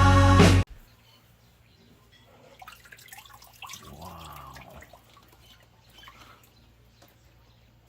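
Background music that cuts off suddenly in the first second. Then quiet water drips and small splashes with scattered clicks, and a short rising-and-falling voice-like sound about four seconds in.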